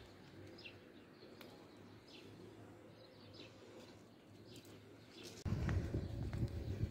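Small birds chirping in short, falling calls, repeated every second or so. About five and a half seconds in, a louder low rumble sets in.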